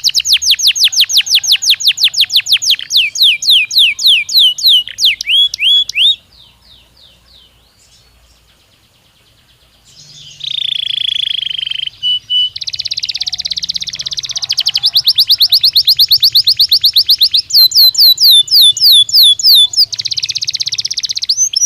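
Domestic canary singing fast, high trills: phrase after phrase of rapidly repeated notes that change speed and pitch. The song drops to a soft trill about six seconds in, and about ten seconds in a lower, held rolling note leads back into the loud fast trills.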